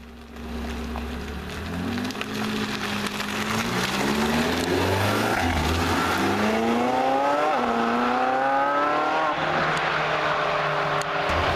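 Porsche 918 Spyder's V8 accelerating hard, its engine note climbing in pitch, dropping at an upshift about seven and a half seconds in, then climbing again. It gives way to a loud rush of noise near the end.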